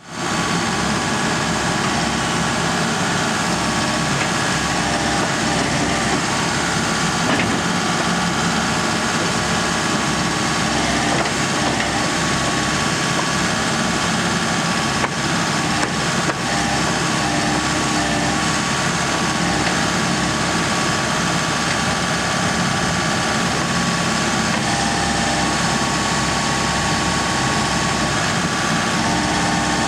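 2012 Case 590 Super N backhoe's diesel engine running steadily.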